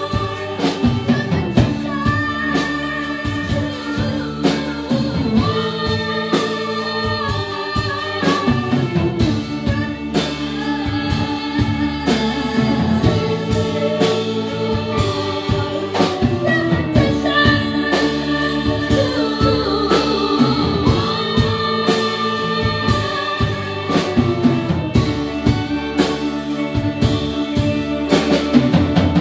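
Live band playing a song, with held, gliding sung notes over instruments and a steady rhythm of sharp percussive strikes.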